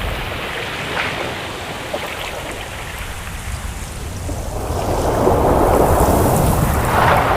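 Ocean waves washing in: a lull with low surf hiss, then about two-thirds of the way through a wave swells and rushes in, growing louder.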